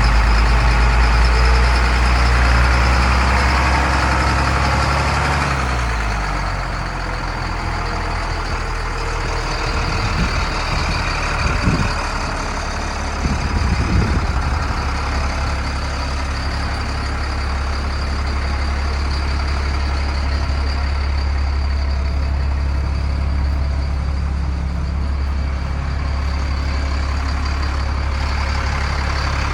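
Bucket truck's diesel engine running. Its speed drops about five seconds in, then it idles steadily, with a few short knocks around the middle.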